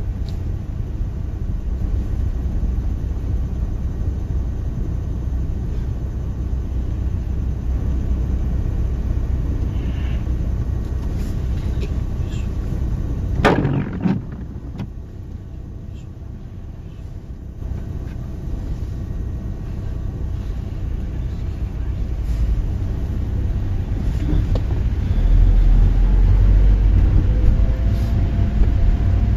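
Steady low rumble. About halfway through there is a brief loud sweep, then it is quieter for a few seconds, and it grows louder again near the end.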